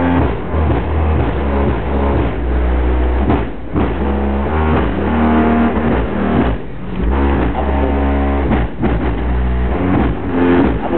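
Music played loud through a car sound system, dominated by heavy bass from a Selenium Tornado 15-inch, 1100 W RMS subwoofer.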